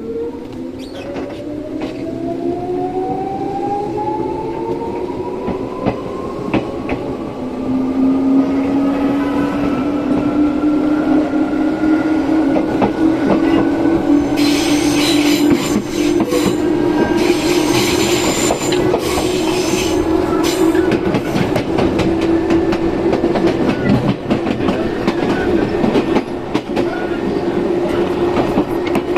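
Izukyu 8000 series electric train heard from on board, pulling away. The traction motor whine climbs steadily in pitch over the first dozen seconds or so. A steady low hum from the Hitachi-made control equipment, the 'low-tone' type, comes in about a quarter of the way through. Wheels click over the rail joints, and there is a spell of hiss about halfway.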